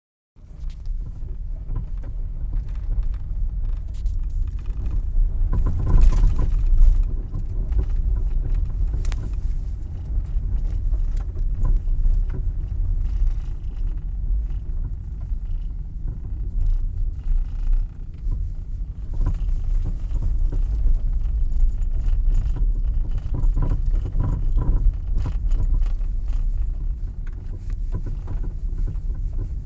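Steady low rumble of a 2017 Hyundai Ioniq on the move, carrying front-wheel noise that the owner finds louder than normal, with a few light knocks; it swells for a moment about six seconds in.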